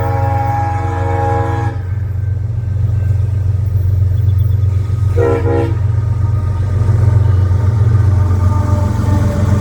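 Diesel freight locomotive horn sounding a multi-note chord that cuts off about two seconds in, then one short toot about five seconds in, over the steady low rumble of the passing locomotive and train.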